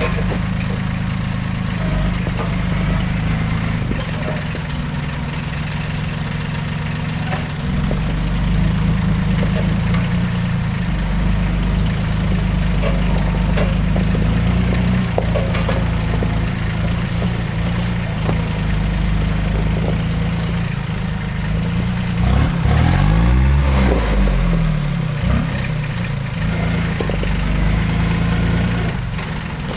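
Diesel engine of a Timberjack forwarder running steadily. About three quarters of the way through it revs up and back down, the loudest part.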